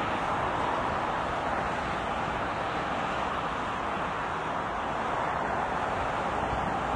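A steady rushing noise with no clear pitch and no separate events.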